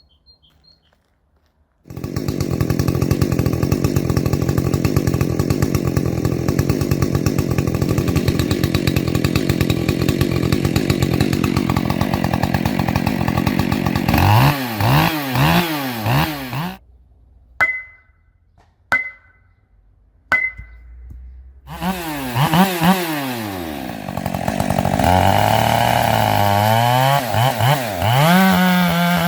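Husqvarna 564XP two-stroke chainsaw with a modified muffler and a 105 cm bar, starting suddenly and running loud at steady high revs for about twelve seconds. It then revs up and down, drops out with a few short blips, and comes back revving before settling into steady running again.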